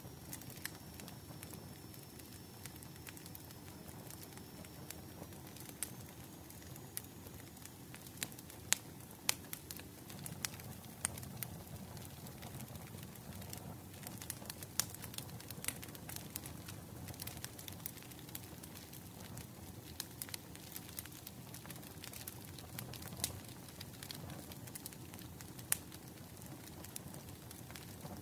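Firewood burning in a bonfire, crackling with irregular sharp pops and snaps over a steady low rumble.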